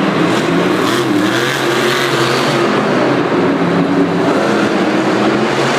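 Monster truck engine running loud and steady, its pitch wavering slightly.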